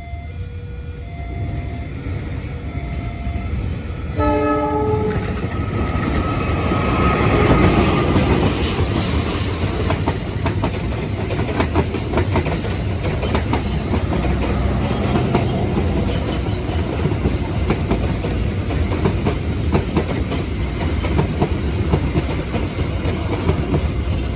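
A two-tone warning signal beeping, then a train horn blast about four seconds in, followed by a train passing close by: a loud rumble with rapid clickety-clack of wheels over the rail joints.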